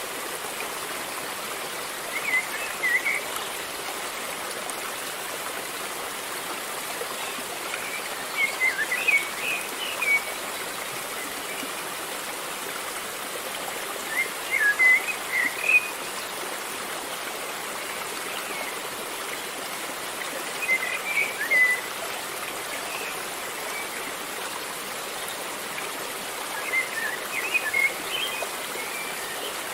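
River water flowing with a steady rushing sound, while a bird sings a short phrase of chirps five times, roughly every six seconds, louder than the water.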